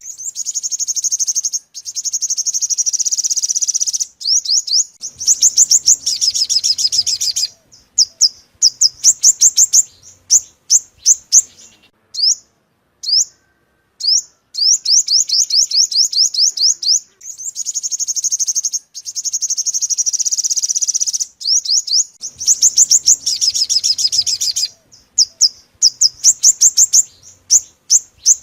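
Olive-backed sunbird song: fast, high trilled phrases alternating with runs of sharp single chirps. The same sequence repeats about every 14 seconds, as in a looped lure recording.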